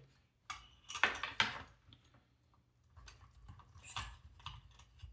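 Hands handling small robot kit parts and loose cables: scattered light clicks and rustling, loudest about a second in and again around four seconds in.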